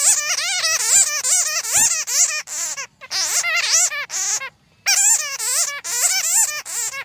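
Bats chattering: rapid, warbling squeaks and chirps in quick runs, with brief breaks about three and four and a half seconds in.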